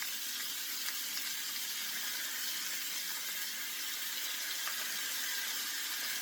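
Beef stew meat sizzling steadily in a hot oiled cast iron skillet while browning.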